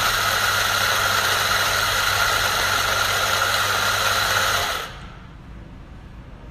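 Electric flat-burr coffee grinder with 64 mm stainless steel burrs running steadily, grinding coffee beans, its motor humming under the grinding noise; it stops about five seconds in.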